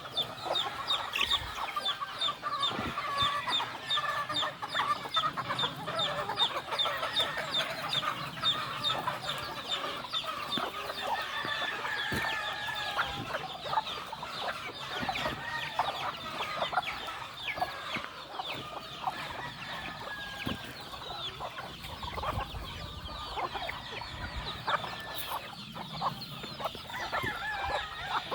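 A flock of gamefowl chickens clucking and calling, many short calls overlapping without a break, with roosters crowing now and then.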